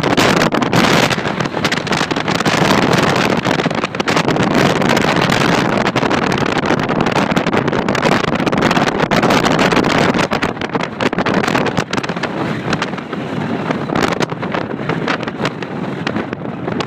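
Strong wind gusting and buffeting across the microphone, with the Robinson R22 helicopter's engine and rotor running underneath as it comes in to land.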